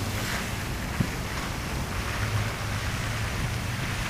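Steady wind noise on the microphone over a low, steady hum, with one sharp click about a second in.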